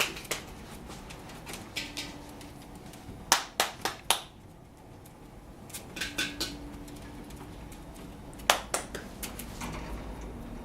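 Scattered sharp taps and clicks: a few quick ones about three to four seconds in, another group around six seconds, and a single louder one near the end.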